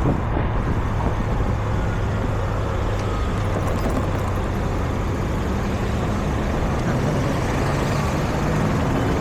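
Road traffic: the steady noise of passing vehicles, with a low engine hum under it.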